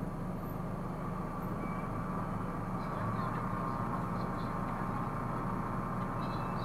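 Steady car driving noise, engine and tyres on the road, heard as a low, even hum.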